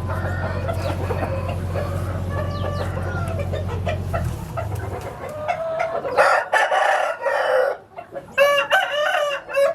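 A rooster crowing twice in the second half, loud and drawn out, with clucking around it; a low steady hum stops about four seconds in.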